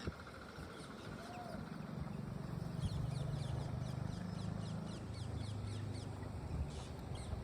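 Parrots chirping in quick, high chirps that fall in pitch, several a second, over a low rumble that swells in the middle.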